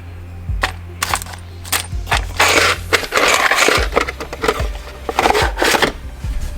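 Loose metal hardware (screws, bolts, nuts) clinking and rattling as a hand rummages through a container of it, with a few separate clicks at first and steady rattling and scraping from about two seconds in.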